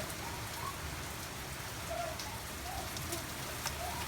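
Steady rain falling, a constant hiss with individual drops ticking through it.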